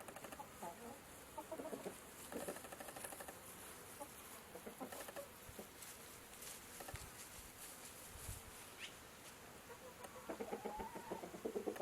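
Chickens clucking faintly, scattered short calls over a background hiss, becoming busier and louder near the end.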